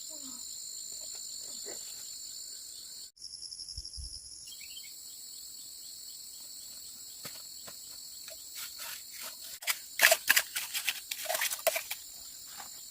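Steady high-pitched drone of insects calling, with a brief stretch of a different pulsing insect call about three seconds in. Irregular sharp knocks and clicks start in the second half and are loudest near the end.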